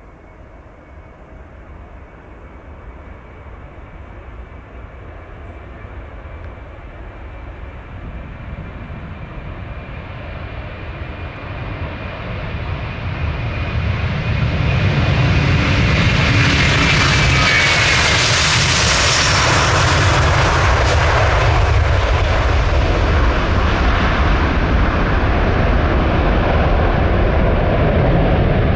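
Jet airliner passing close by: its engine noise builds over about fifteen seconds, a thin engine whine falls in pitch as it goes past, and a loud low rumble carries on to the end.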